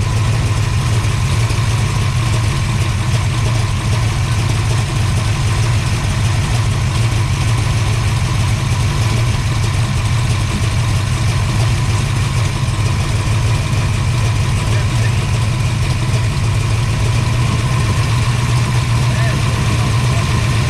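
A 512 cubic-inch big-block Mopar stroker V8, newly installed, idling loud and steady with no change in speed.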